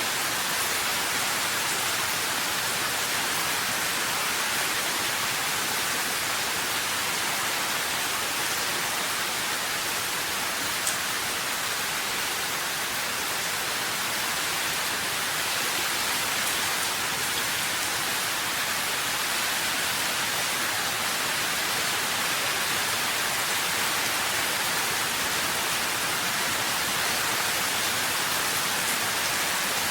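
Steady rain, an even hiss without change, with one brief tick about eleven seconds in.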